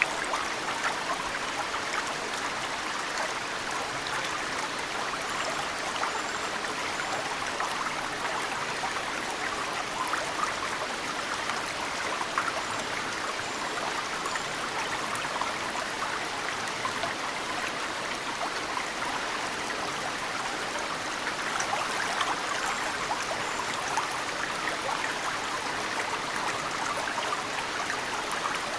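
A mountain stream flowing steadily, with snowmelt drips splashing into the water as many small, sudden plinks. Faint, high bird chirps come in two short runs of about three notes each.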